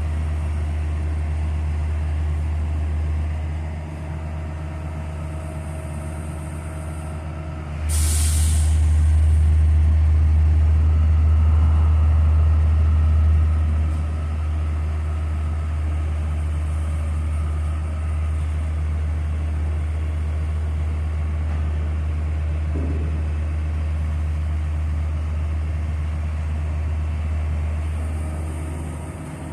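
Heavy diesel engine running steadily with a deep drone. About eight seconds in comes a short burst of air hiss, and the engine then runs louder for several seconds before settling back.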